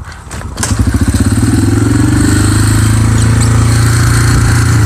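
125cc dirt bike kick-started with the clutch pulled in: a few clicks of the kick, then the engine catches about half a second in and runs steadily, its pitch rising a little as it picks up.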